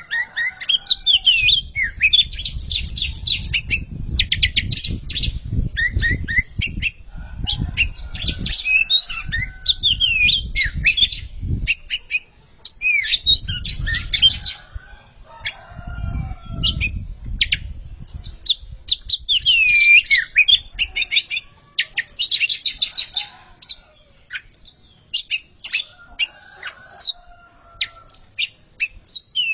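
Two oriental magpie-robins singing against each other: fast, varied runs of sharp notes and sweeping whistles, with hardly a break. A low rumble lies under the song for much of the first two-thirds.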